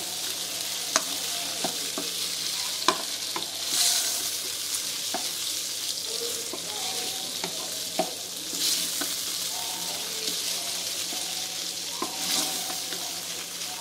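Raw chicken cubes sizzling in oil in a non-stick wok while a wooden spatula stirs them. The sizzle swells now and then as they are turned, with a few sharp clicks of the spatula against the pan.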